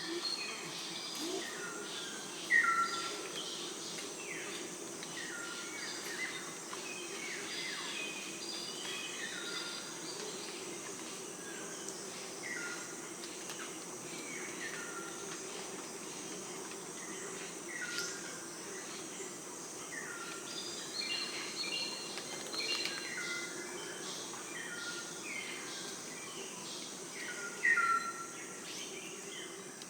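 Wild birds repeatedly giving short, falling whistled calls every couple of seconds, over a steady drone of insects.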